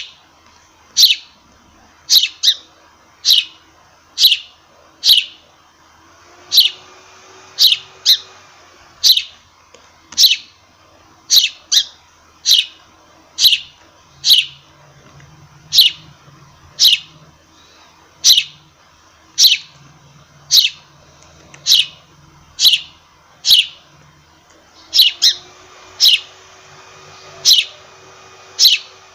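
A sparrow chirping over and over: short, sharp chirps about once a second, some coming in quick pairs.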